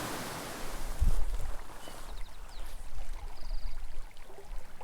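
A small mountain creek running, a steady hiss of flowing water. From about a second in, low thumps and rumble sound on the microphone, with a few faint ticks.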